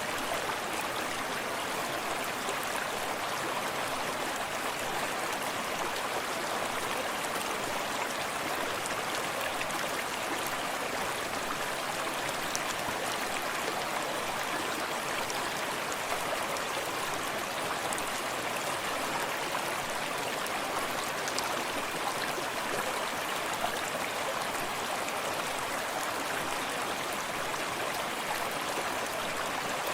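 A forest stream running steadily, water splashing and lapping over rocks, with the rush of a small cascade behind it.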